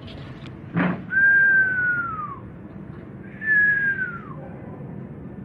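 Two long whistled notes, each a single clear tone that holds and then slides down in pitch, about two seconds apart. A short knock comes just before the first.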